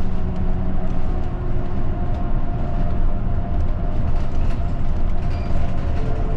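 Route bus engine and road noise heard from inside the cabin: a steady low rumble with a faint hum and scattered small rattles and clicks.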